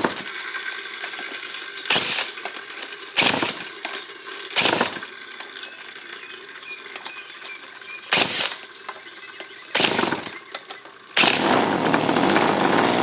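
Small two-stroke engine from a Poulan Wild Thing chainsaw running on a test stand, surging up in revs five times in short bursts, then held at high revs from about eleven seconds in. It will only keep running with the throttle pinned.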